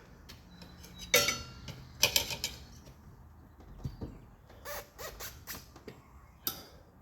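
Steel tire irons clinking and knocking against the wheel rim as a dirt bike tire bead is levered onto the rim. There is a ringing metal clink about a second in, a quick cluster of clicks around two seconds, and another sharp knock near the end.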